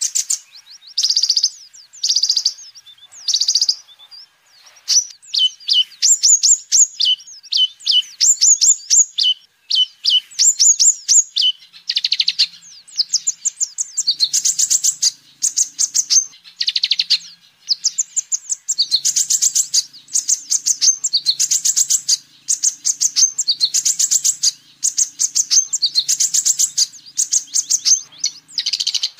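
Kolibri ninja, a small sunbird, singing: phrase after phrase of rapid, high, thin chirps and trills, each about a second long with brief pauses between. A faint low hum sits underneath from about halfway through.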